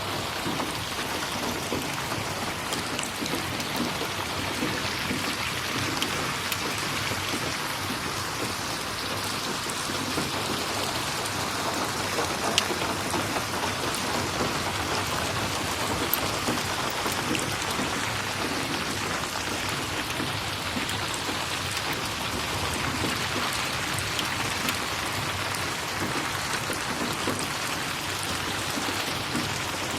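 Steady rain, an even hiss of falling water, with scattered sharp clicks and a few louder ticks.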